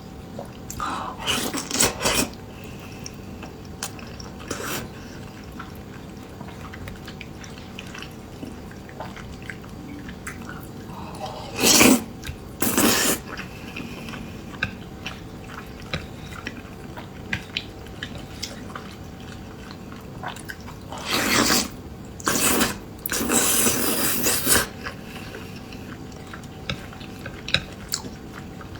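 Close-up eating sounds: wet chewing and small mouth clicks, with several louder noisy bursts of slurping or sharp breaths, each lasting under a second to about a second and a half, near the start, around the middle and again about three quarters through.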